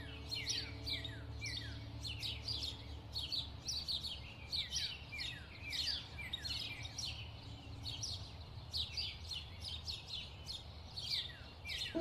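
Many small birds chirping together: a dense chorus of short, quick, downward-sliding chirps over a low steady hum.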